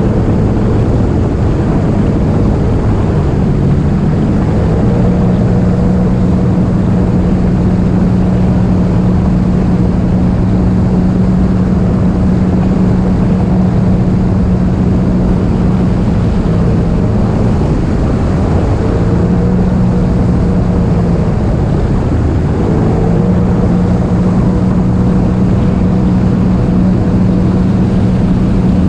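Jet ski engine running at speed over rushing water and wind noise. The engine note is steady, eases off twice in the second half and comes back up each time.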